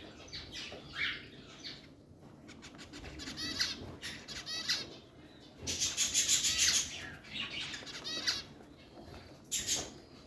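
Pet parrots chirping and chattering in several rapid runs of high, repeated notes, loudest about six seconds in, with bursts of wing flapping.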